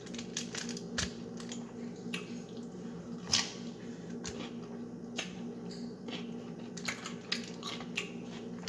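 Scattered small clicks, taps and soft squishy handling sounds, the strongest a sharp tap about a second in and another about three and a half seconds in, over a steady low hum.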